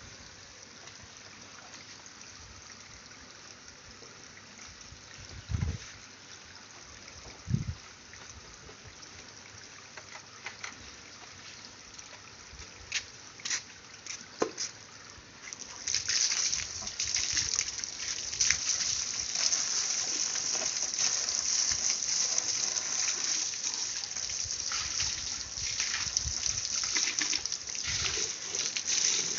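Water washing a motorcycle: a quiet stretch with a couple of dull knocks and scattered drips, then about halfway a water jet starts and sprays steadily with a loud hiss.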